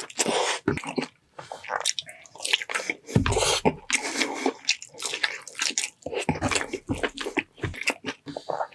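Close-miked eating: a person chewing and biting food with wet, irregular smacking and squishing sounds.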